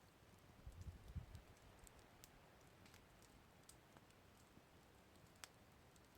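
Faint campfire crackling: scattered sharp pops and ticks from burning wood, one louder pop near the end. A brief low rumble about a second in.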